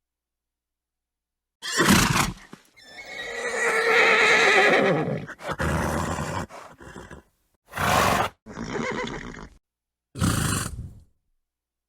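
A horse neighing once in a long wavering whinny, with short breathy snorts before and after it, each sound separated by dead silence.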